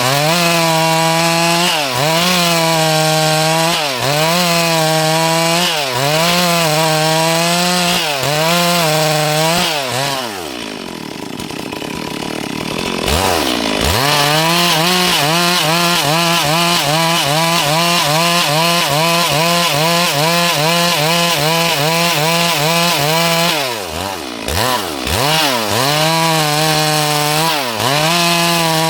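Stihl MS 382 two-stroke chainsaw cutting through a dry log at high revs. Its engine note sags and recovers about every two seconds as the chain bites. About ten seconds in the revs drop off for a few seconds, then the saw revs back up and cuts on steadily, with a couple of brief dips near the end.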